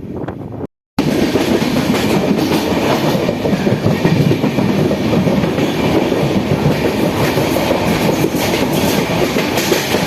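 Konkan Railway passenger train running along the track, a loud, steady rumble and rattle that cuts in abruptly about a second in.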